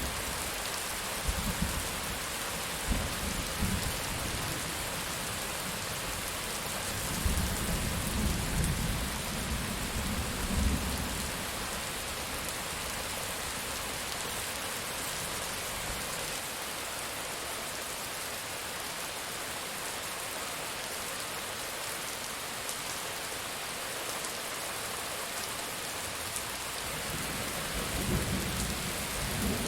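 Steady heavy rain with rolls of thunder: low rumbles in the first few seconds, a longer roll about seven to eleven seconds in, and another near the end.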